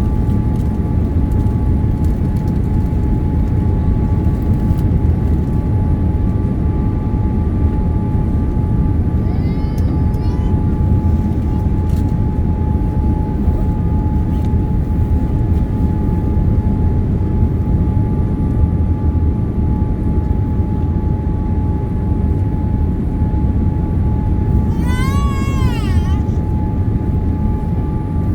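Steady roar inside a Boeing 787 Dreamliner's cabin, airflow and engines running evenly with a steady whine over the rumble. Two brief high sounds with rising-and-falling pitch cut through it, one about ten seconds in and a louder one near the end.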